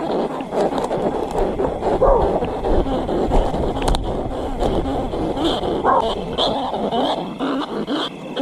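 Animal cries: a dense run of short, dog-like whimpering and yipping.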